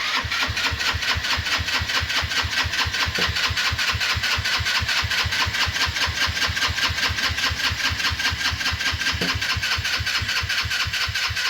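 Go-kart engine being cranked over by its electric starter in a steady, even chug that begins abruptly and does not catch. It cranks slowly on a nearly dead battery after a shot of starting fluid.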